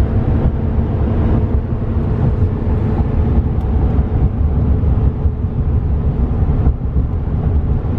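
Cabin noise of a 2015 GMC Sierra 3500HD pickup on the move: a steady low rumble of tyres, drivetrain and engine heard from inside the cab.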